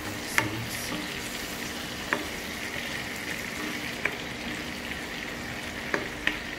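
Chicken and potatoes frying in a granite-coated nonstick wok as they are stirred with a wooden spatula. The spatula knocks sharply against the pan about five times.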